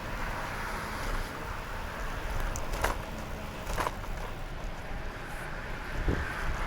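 Steady rushing noise of riding a bicycle, with wind on the microphone and tyre noise on the trail, and a couple of short clicks about three and four seconds in.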